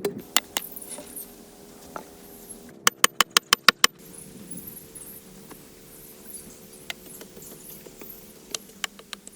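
Scattered sharp knocks and taps, with a quick run of about eight strikes around three seconds in, over faint steady humming tones.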